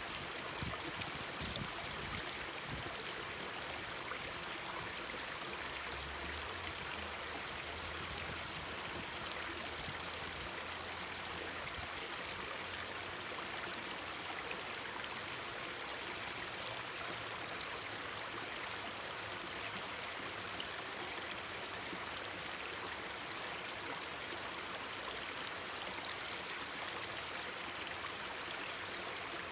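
Mountain stream babbling steadily over rocks, a constant rushing water sound, with scattered faint pops and crackles from a wood campfire. A few soft low thumps come in the first couple of seconds.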